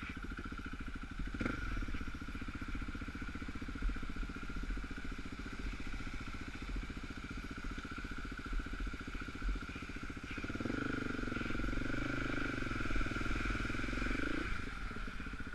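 Dirt bike engine running at low speed in first gear on rough ground. About ten seconds in it gets louder under more throttle for around four seconds, then eases back.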